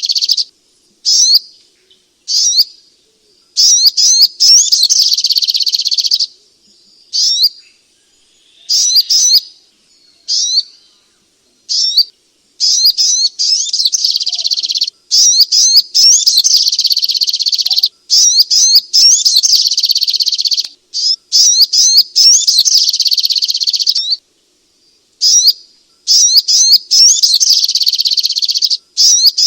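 Sogok ontong (spiderhunter) singing: loud, rapid, high-pitched chattering phrases. Some phrases last under a second and others several seconds, with short silent gaps between them.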